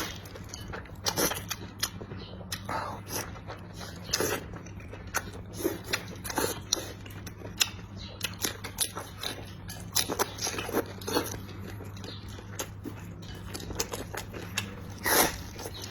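A person eating close to the microphone: irregular wet chewing, biting and mouth-smacking sounds, several to a second. A low steady hum lies underneath.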